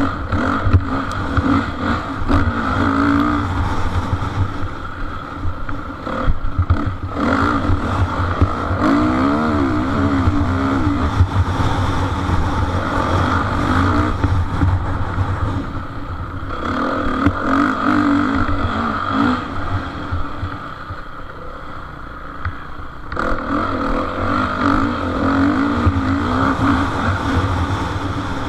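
Motocross bikes racing, their engines revving up and down again and again through gear changes and throttle bursts, dropping back for a few seconds before rising again.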